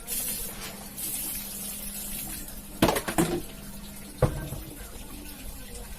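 Water spraying and running in hissing rushes during carpet washing, with a few sharp knocks about halfway through.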